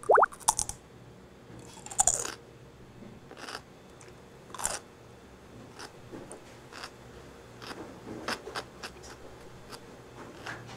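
Close-miked crunching and chewing of food, made on purpose as eating ASMR. Irregular crisp bites and chews come every second or so, the loudest near the start and about two seconds in.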